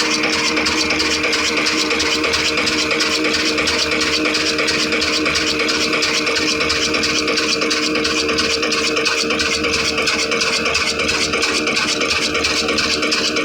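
Old black desi diesel engine running steadily with a fast, even rattle, together with the atta chakki (stone flour mill) it drives.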